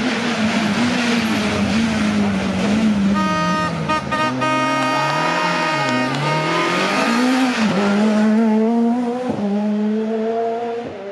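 Rally car engine at full load on a stage, its pitch rising and falling through the revs. Near the end it climbs twice, with a sharp break at each gear change.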